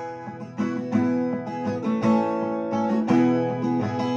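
Acoustic guitar strummed in an instrumental break between verses of a folk song, with chords struck roughly every half second.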